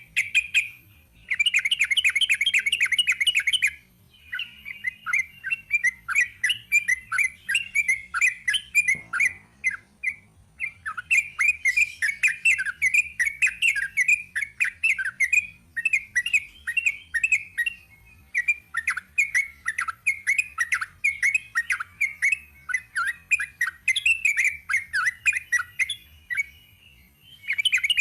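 Yellow-vented bulbul (trucuk) singing its long, rapid rolling song: dense runs of quick, chattering notes broken by brief pauses.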